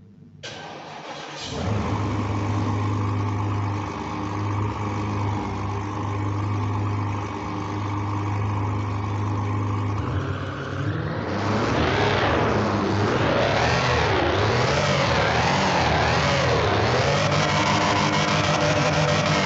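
Porsche Panamera engine starting and idling steadily, then revved up and down over and over from about halfway through.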